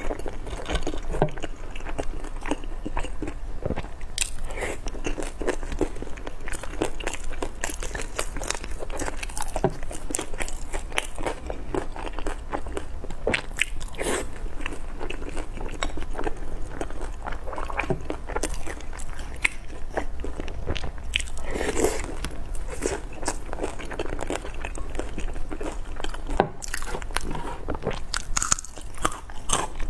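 Close-miked biting and chewing of pan-fried buns (shengjianbao): crunching on their crisp, browned bottoms, with many irregular wet clicks and crackles of chewing.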